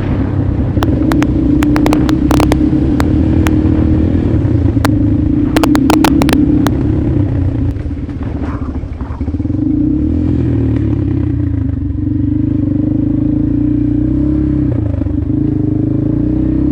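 Motorcycle engine running while riding, with many sharp clicks and clatter over the first several seconds. The engine eases off briefly about halfway through, then pulls steadily again.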